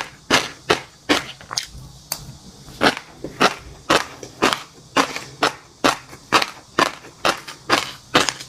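Close-miked chewing of fish roe and crunchy chili-garlic seafood: a steady run of crisp crunches, about two to three a second.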